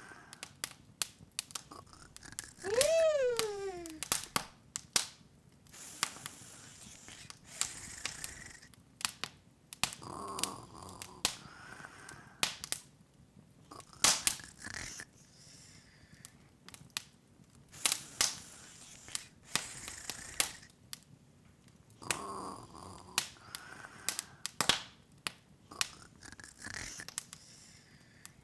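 Open wood fire crackling, with irregular sharp pops and a soft hiss. About three seconds in, a short pitched sound rises briefly and then slides down for about a second.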